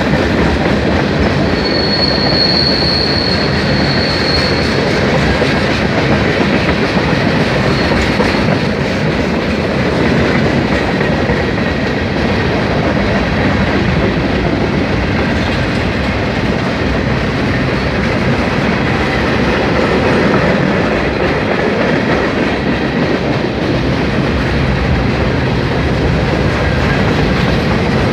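Freight cars of a Norfolk Southern mixed freight train rolling past: a steady rumble and clatter of steel wheels on rail, with a brief high wheel squeal about two seconds in.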